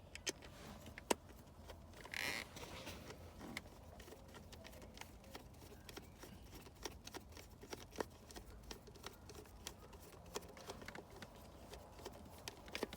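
Scattered light clicks and taps of a screwdriver and a small screw being worked by hand, with a sharper click about a second in and a brief rustle about two seconds in.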